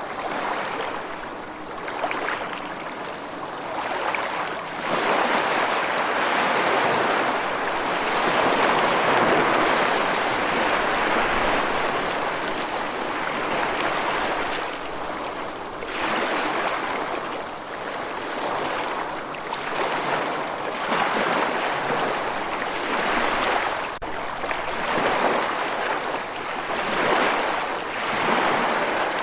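Rushing water: a dense, steady wash that swells and eases every few seconds.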